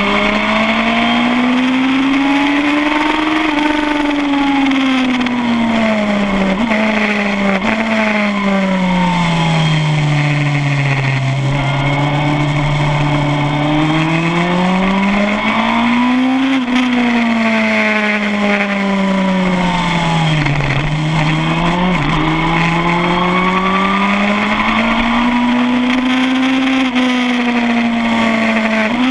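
2007 Suzuki GSX-R1000 K7 inline-four engine at high revs around a race track. It accelerates and brakes in several long swells, its pitch climbing and falling, with quick gear changes and throttle blips heard as short steps in pitch. Wind rush over the bike runs underneath.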